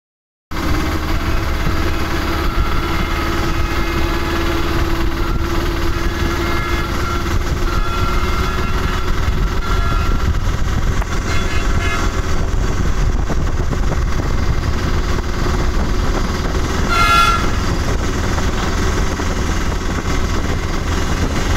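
A passenger train running at speed, heard from aboard: a steady rumble of the carriage on the rails. A short high-pitched tone sounds briefly about three-quarters of the way through.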